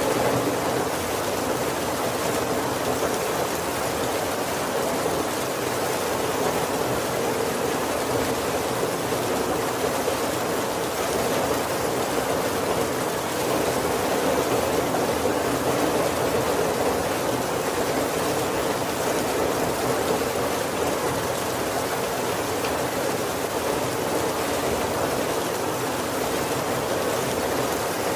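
Heavy rain falling steadily on a roof, a dense, even rushing hiss that holds level throughout.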